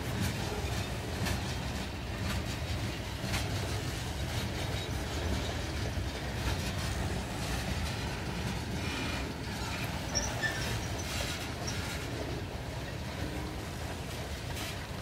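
Freight train cars rolling past at steady speed: a continuous low rumble with the wheels clicking irregularly over the rail.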